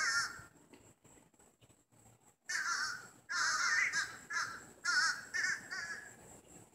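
Several birds from a flock calling back and forth. A quiet stretch is followed, from about two and a half seconds in, by about five wavering calls in quick succession.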